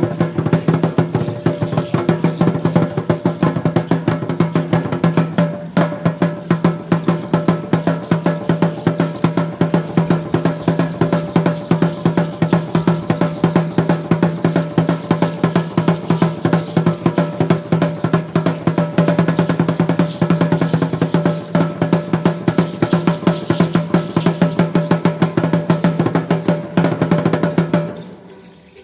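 Aztec dance drumming: a fast, even beat of drum strikes played continuously, stopping abruptly near the end.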